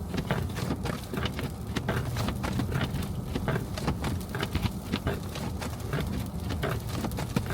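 Car driving through snow: a steady low rumble with dense, irregular clicking and crunching throughout.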